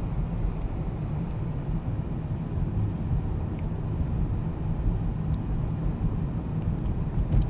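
A car driving slowly, its road and engine noise heard from a camera mounted outside on the hood: a steady low rumble with a faint hiss above it.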